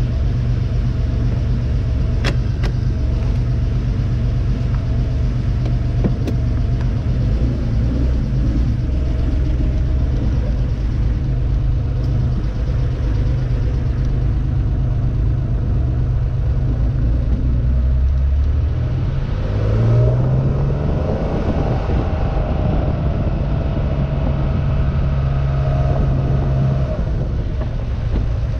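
2.7-litre twin-plug flat-six of a 1972 Porsche 914-6 running as the car drives, heard from inside the open-topped cabin. About two-thirds of the way in the engine revs up in a rising glide, holds a higher steady note for several seconds, then eases off near the end. Two sharp clicks sound a few seconds in.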